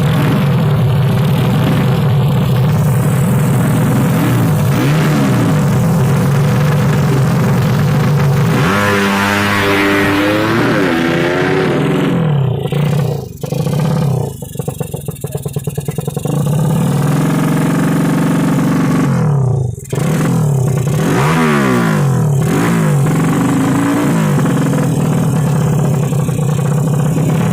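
Yamaha Jupiter drag-race motorcycle engines revving hard, the pitch climbing and falling with each throttle blip. About thirteen seconds in the revs drop to a rapid, stuttering low run for a few seconds, then the revving picks up again.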